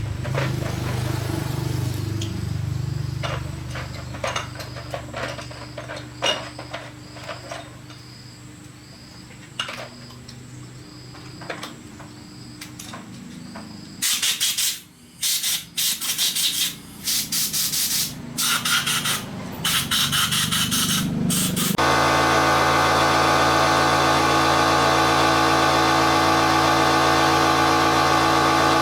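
Workshop handling with scattered clicks and knocks, then a run of loud, short noisy bursts. About three-quarters of the way in, a small motorcycle engine is running steadily at idle.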